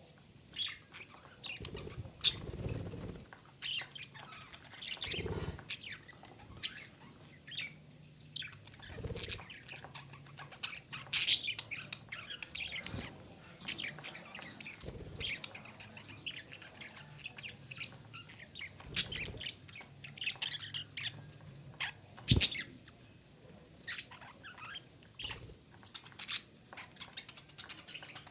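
Female budgerigar chattering in short, scattered chirps, with a few sharp clicks among them.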